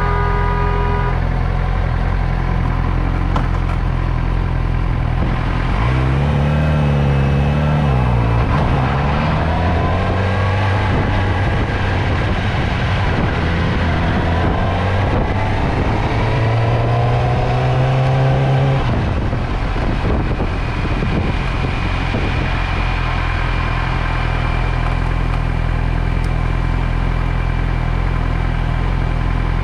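Motorcycle engine idling, then pulling away twice with rising pitch, about six seconds in and again from about fourteen to nineteen seconds in, before settling back to a steady idle.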